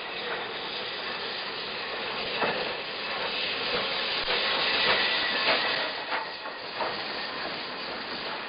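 Train rolling by: a steady rushing hiss with several irregular clanks of wheels over the rails, loudest in the middle.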